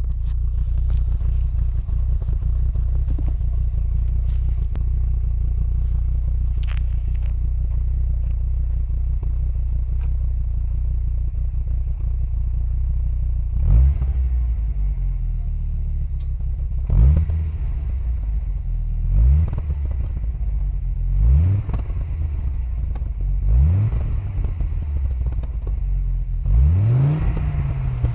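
Fiat Coupe 20v Turbo's five-cylinder turbo engine idling steadily through a Ragazzon Top Line exhaust. About halfway through it begins to be blipped, six quick revs a few seconds apart, each rising and falling back to idle, the last one held a little longer.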